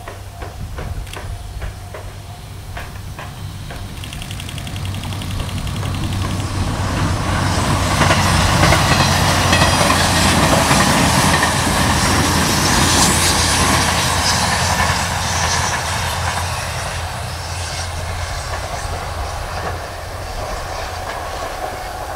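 E491 East i-E electric inspection train passing at speed. Its wheels click regularly over the rail joints as it approaches, then wheel-on-rail and running noise grow to their loudest as it goes by and fade slowly as it moves away.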